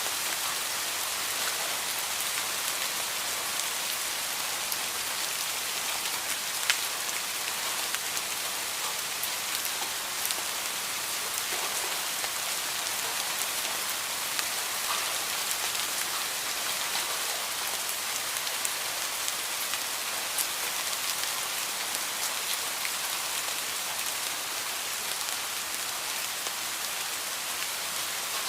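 Heavy rain falling steadily: a dense, even hiss with many scattered sharper drop impacts, one a little louder about seven seconds in.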